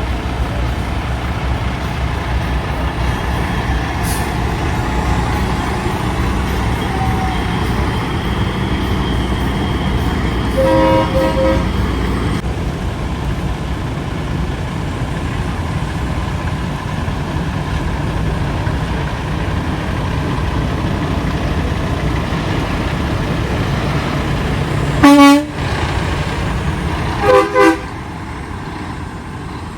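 Big-rig truck engines rumbling steadily as the trucks pass, with a truck horn sounding for about two seconds a third of the way in. Near the end comes one loud short horn blast, followed by two quick toots.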